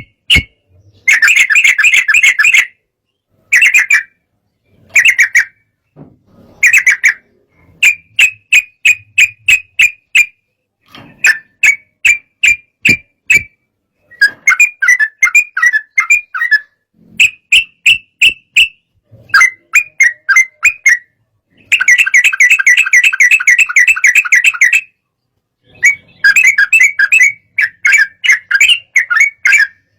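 Yellow-vented bulbul (trucukan) singing in repeated bursts of quick, chattering notes, with short pauses between phrases.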